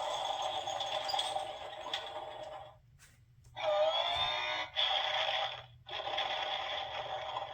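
Recorded sound effects from a children's construction sound book, played one after another in separate bursts with short breaks between them. Each is a noisy, machine-like sound with a steady tone, and the second has a rising whine at its start.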